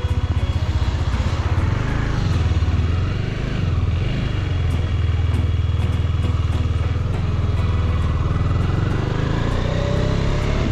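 Motorcycle engine running under way, a fast steady low pulsing whose pitch rises and falls with the throttle.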